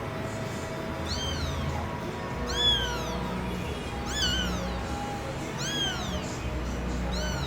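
Norwegian Forest cat meowing: four short, high-pitched meows about a second and a half apart, over steady background music.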